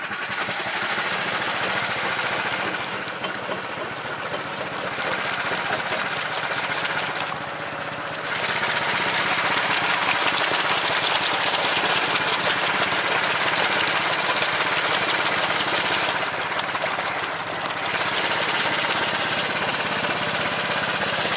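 Karakat's engine running under load as it churns through a swampy creek, its revs easing off briefly three times and rising again.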